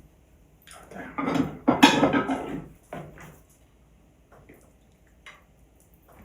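Dishes and cutlery clattering: utensils and plates clinking and scraping, busiest from about a second in to nearly three seconds, then a few separate clicks.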